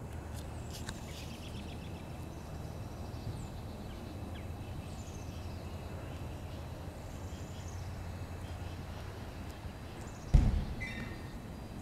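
Small birds calling in the trees, short high descending chirps every second or two, over a steady low rumble. A loud thump comes a little after ten seconds in, followed by a short harsher call.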